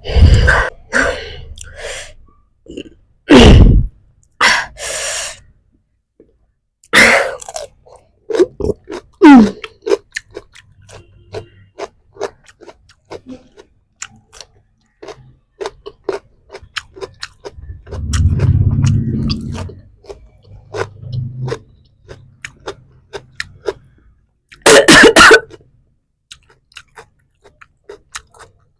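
Close-miked eating: chewing with many small wet mouth clicks and crunches, broken by a few louder bursts.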